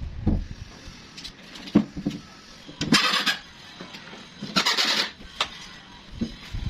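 Woodworking sounds: a few knocks, with two short scraping strokes about 3 and 5 seconds in.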